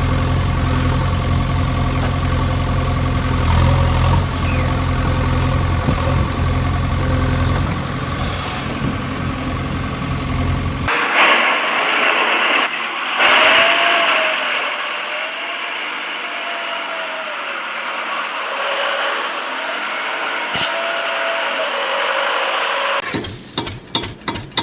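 A steady engine-like hum for about eleven seconds, then a sudden cut to a hissier, noisier sound with short up-and-down pitch glides. Near the end a fast, even pulsing begins.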